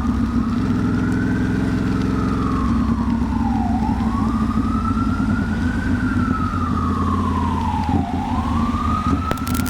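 Ambulance siren in a slow wail, rising and falling about every four seconds, over the steady low hum of a Ducati Monster's engine running in traffic.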